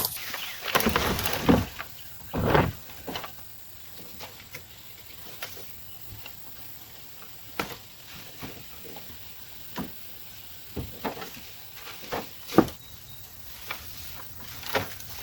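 Cut tree branches and brush crackling and snapping as they are handled, in irregular sharp cracks with rustling. The cracks are densest in the first few seconds, then come singly every second or so.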